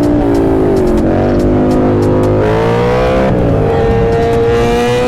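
Vehicle engines revving in traffic, one engine's pitch dipping about a second in, then climbing and holding high.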